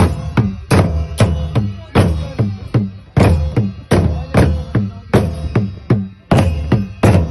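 Traditional Nepali drums and cymbals of a Damai band beating a steady, driving rhythm of about two to three strokes a second, with louder and softer hits alternating, as accompaniment to a shaman's trance dance.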